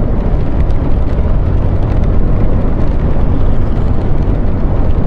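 Wind rumbling hard on the microphone over a motorcycle running at road speed, a steady heavy low roar with no break.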